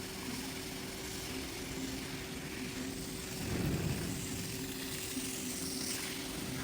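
A motor-driven cleaning machine running steadily with a constant hum over a wash of noise, and a swell of low rumble about three and a half seconds in.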